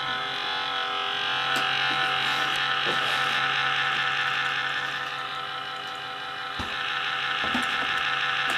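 Noisy laptop cooling fan running with a steady whir and a whine of several held tones, easing off briefly about five to six seconds in, with a few faint clicks.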